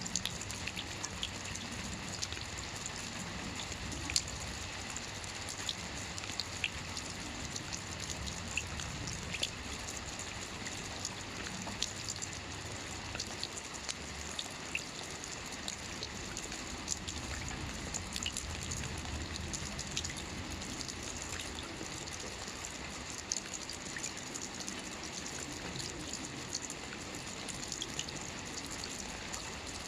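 Gentle light rain falling steadily, a soft hiss dotted with many small individual drop ticks. There is no thunder.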